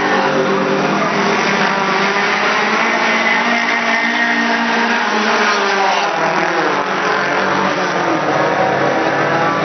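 Race cars' engines revving hard as they pass, the pitch climbing and dropping several times through gear changes.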